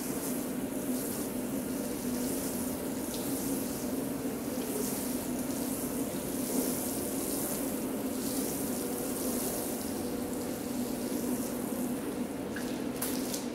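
Water spraying onto a rug, with a high hiss that swells and fades about once a second, over a steady machine hum. A few sharp clicks come near the end.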